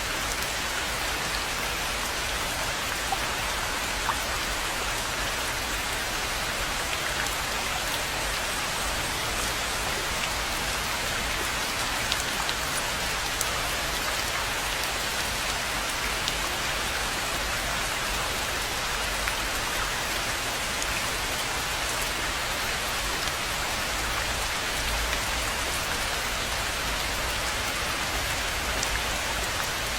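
Steady rain falling on a pond and the surrounding foliage: an even hiss with scattered individual drops ticking.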